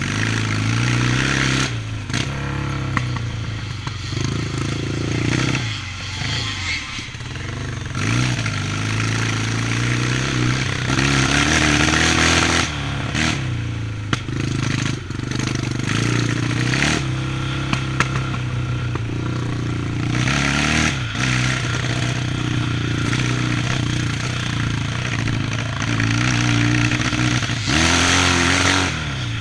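Yamaha 650 motocross bike's four-stroke parallel-twin engine running hard, its pitch rising and falling repeatedly as the throttle is opened and rolled off. It surges loudest a little over a second in, midway through and near the end.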